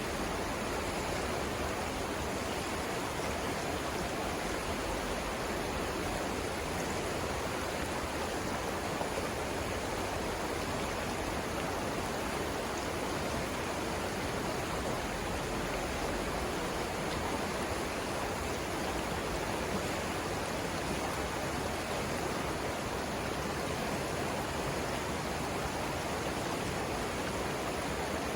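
River rapids rushing: a steady, even rush of flowing water over the rocks, with no change in level.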